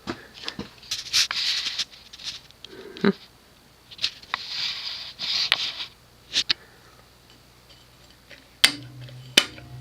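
Clicks and rustling of handling, then near the end a sharp click after which a steady low hum starts: the cast-iron motor of an Emerson Longnose antique ceiling fan being switched on at low speed.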